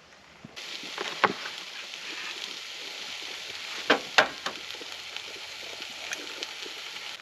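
Food sizzling as it fries in a pan, a steady hiss with crackles and a few sharp pops. It starts suddenly about half a second in.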